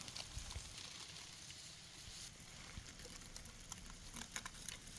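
Faint, near-quiet background with scattered small ticks and light rustling, a few more of them after the middle.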